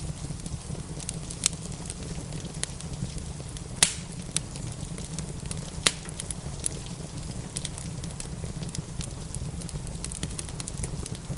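Wood fire crackling in a fireplace: a steady stream of small irregular snaps over a low, even rumble and hiss, with two louder pops about four and six seconds in.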